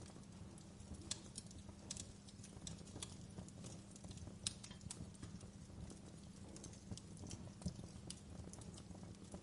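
Fireplace wood fire crackling: irregular sharp pops and snaps, a couple louder than the rest, over a steady low rumble.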